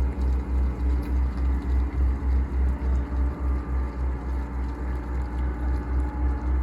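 A motor vessel's engine running steadily, with a low throb that pulses about five times a second.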